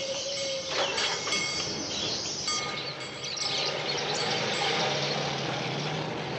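Many small caged birds chirping and twittering together, short high calls overlapping throughout, with a low steady hum joining about three and a half seconds in.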